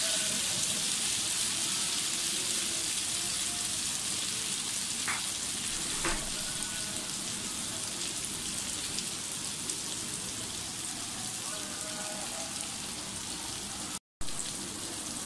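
Skewered marinated chicken pieces sizzling in oil on a hot ridged grill pan, a steady frying hiss. There are two light clicks about five and six seconds in. The sound cuts out for a moment near the end.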